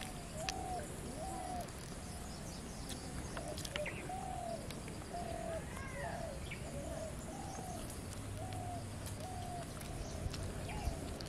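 A bird calling over and over, short rising-and-falling notes about once a second, with a few fainter chirps from other birds.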